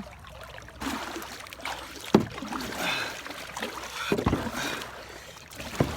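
Kayak being paddled in floodwater current: a steady splashing water noise, with three sharp knocks about two seconds apart.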